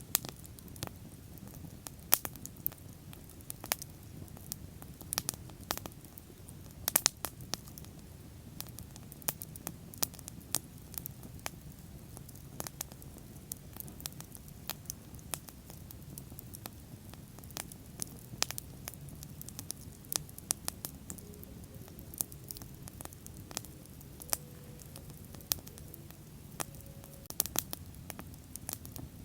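Bonfire crackling: frequent irregular sharp pops and snaps from the burning wood over a low, steady rumble of the flames.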